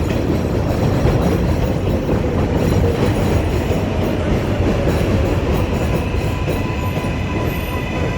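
7 line subway train running on the rails: a steady rumble with some clatter of the wheels. A faint steady whine comes in about six seconds in.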